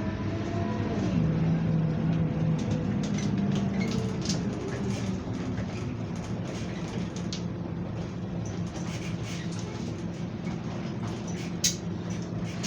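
Scania Enviro 300 bus's diesel engine heard from on board. Its note drops about a second in, then it runs at a steady pitch, with scattered light clicks and rattles.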